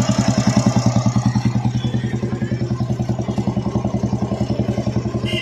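Royal Enfield Bullet single-cylinder engine idling with an even, regular beat, its two timing gears freshly reset with shim washers as the cure for the tappet-area tick-tick noise.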